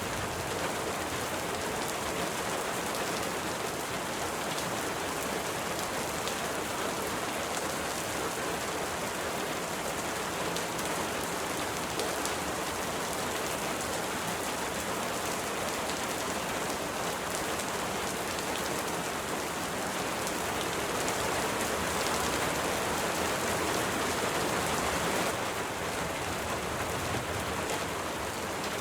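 Steady rain falling, an even hiss of many drops, swelling a little about twenty seconds in and easing back a few seconds later.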